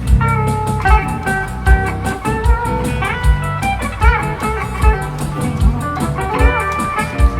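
Live band playing an instrumental break: a lead guitar line with bent notes over a steady bass-drum beat, about one thump every 0.8 seconds, with cymbal ticks.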